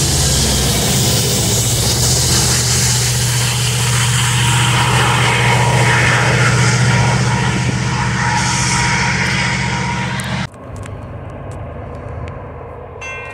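Diesel freight train passing close, its locomotive engines giving a loud, steady roar with a deep hum. The sound cuts off abruptly about ten seconds in, leaving a quieter background, and chiming music starts at the very end.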